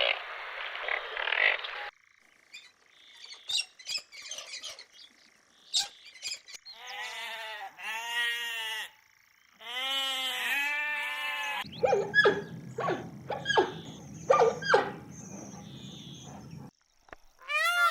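A sequence of animal sound clips: about seven seconds in, two bouts of short repeated pitched calls, each call rising and falling, set between stretches of clicks and a low hum with sharp knocks.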